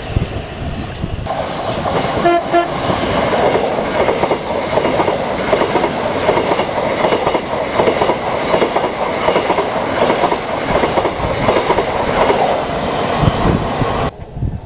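Thameslink electric multiple-unit train passing through the station with a steady rumble and wheel clatter, and two short toots of its horn about two seconds in. The sound cuts off suddenly near the end.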